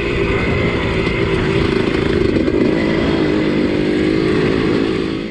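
Two-stroke engine of a 1983 Husqvarna 250CR motocross bike running at fairly steady revs, its pitch wavering slightly; the sound cuts off suddenly right at the end.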